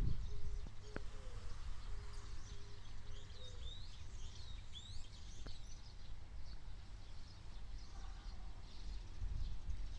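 Small birds chirping with quick rising and falling calls, busiest in the first half, over a steady low rumble on the microphone.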